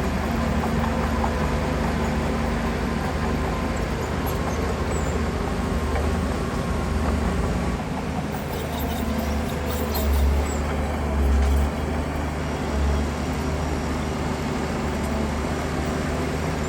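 Heavy diesel engine of earthmoving machinery running steadily under load, with brief louder surges about ten and eleven seconds in.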